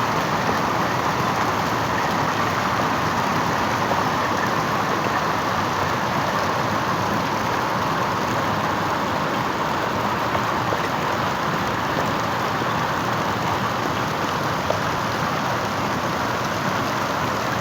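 Hail and rain coming down hard in a hailstorm, a loud, steady, unbroken noise with no letup.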